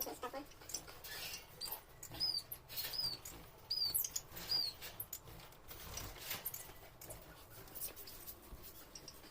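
Small caged pet birds chirping: four short, high chirps about three-quarters of a second apart near the middle, amid light rustling and clicking of birds moving in their cages.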